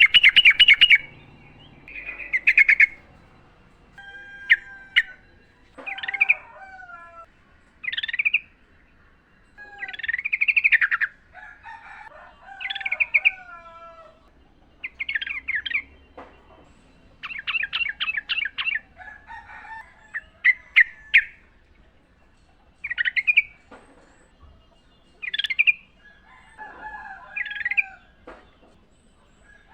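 Yellow-vented bulbul (trucukan) singing short, bubbly, liquid phrases, repeated every one to two seconds, with a fast chattering run about halfway through. Fainter, lower bird calls sound between the phrases.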